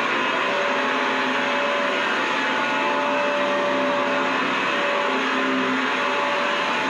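Vacuum cleaner running steadily: an even rush of air with a few steady hum tones under it.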